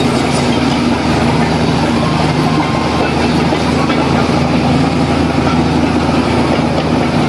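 Heavy diesel earthmoving machinery running steadily, a low engine drone with a dense mechanical rumble.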